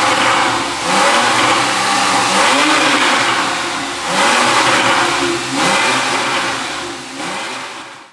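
Porsche 911 Carrera S's 3.8-litre flat-six revving, its exhaust note rising in pitch in several surges.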